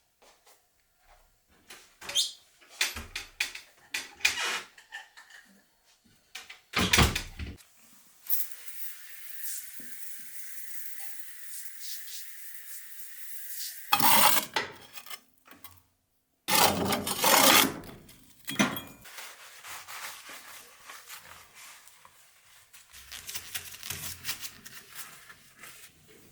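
Household items being handled: clinks and knocks like dishes and utensils, a steady hiss lasting about six seconds in the middle, and a few louder clattering bursts after it.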